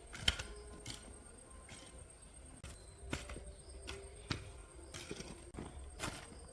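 A series of irregular knocks, about two a second, the sharpest one coming just after the start.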